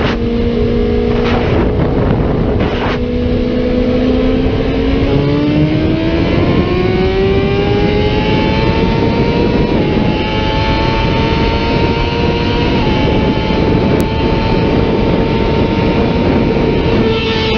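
Superbike engine running hard at high revs, its pitch holding steady for a few seconds and then climbing under acceleration, with two small dips in pitch about ten and thirteen seconds in as it shifts up, over heavy wind noise.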